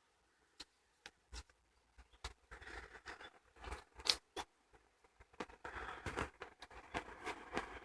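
Footsteps crunching and scraping on a forest path, with a few scattered crackles at first, then steadier crunching steps from about halfway through.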